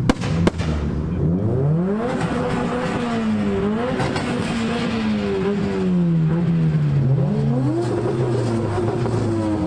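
A car engine revving, its pitch climbing and falling several times as the throttle is blipped and held, with two sharp cracks in the first half second.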